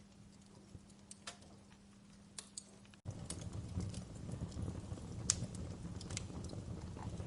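Wood fire crackling in a fireplace, with scattered sharp pops and snaps. About three seconds in the sound cuts abruptly and comes back louder, with a low rumble of flames under more frequent pops.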